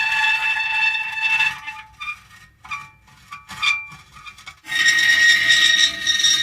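Metal creaking: a long, steady, high squeal, then a couple of seconds of short broken squeaks, then the loud squeal starting again abruptly about two-thirds of the way through.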